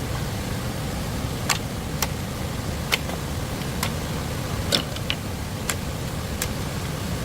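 A steady low rushing noise like running water, with sharp single knocks or taps that come unevenly, about once a second, the loudest near the middle.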